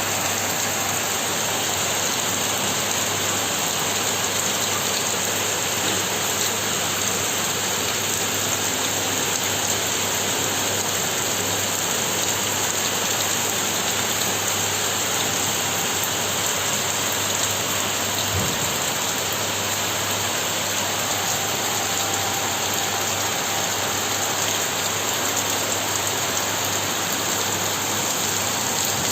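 Heavy rain pouring down in a steady, even hiss. A brief low thump comes about two thirds of the way through.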